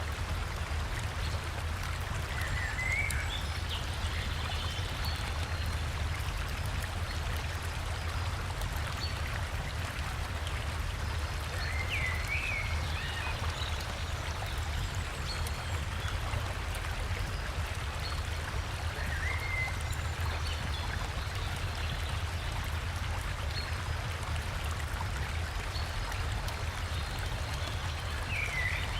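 Forest river and small waterfall rushing steadily, with a deep rumble under the splashing. A few short, faint bird chirps come through about every eight seconds.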